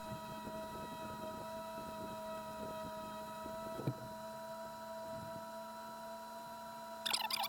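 A small motor humming steadily with several high whining tones, most likely the kitten's little electric fan. There is one short knock about four seconds in and a brief rustling clatter near the end.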